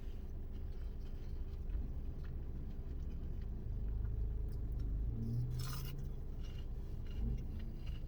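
A person chewing a mouthful of battered, deep-fried pickle slices dipped in ranch, with soft mouth and crunch noises over the steady low hum of a car interior. There is a short, sharper noise about two-thirds of the way in.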